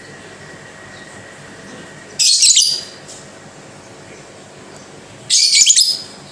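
Lovebird giving two short, shrill, chattering calls about three seconds apart.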